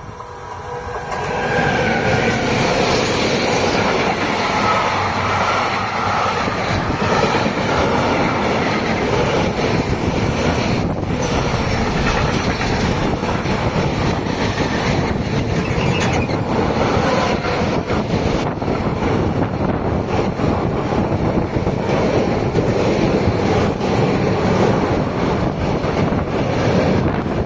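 A train passing close by on the track, its wheels running loud and steady over the rails. It swells up over the first couple of seconds, with some wheel squeal.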